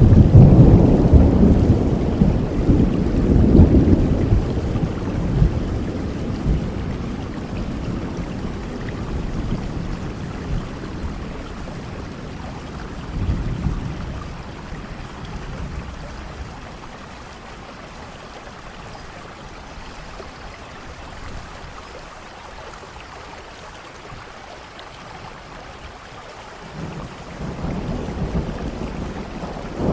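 Thunderstorm: steady rain falling, with rolling thunder. A loud low rumble at the start dies away over several seconds, a smaller rumble comes near the middle, and another builds near the end.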